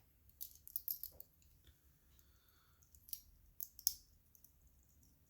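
Faint small clicks and light rattles in two short clusters, from a damaged clasp being taken off a watch bracelet.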